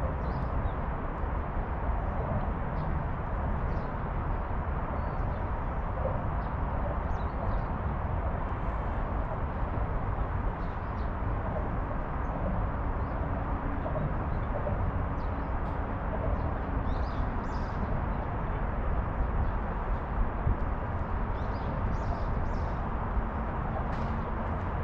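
Outdoor ambience: a steady low rumble with scattered faint, short, high chirps of small birds.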